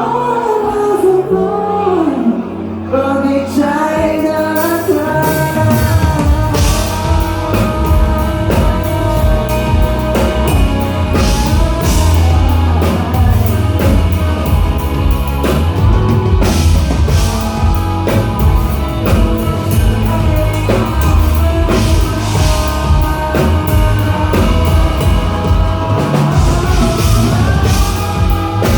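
Rock band playing live, with singing over the instruments; a full drum kit and bass come in about five seconds in and keep a steady beat.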